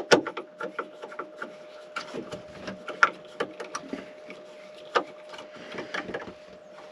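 Hands working a part into place during electrical rewiring: irregular clicks, taps and scraping, the loudest about three and five seconds in. A faint steady hum runs underneath.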